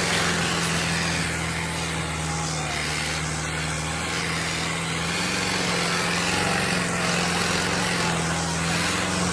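Sonalika 750 tractor's diesel engine running steadily at a constant pitch, with an even noisy rattle over it.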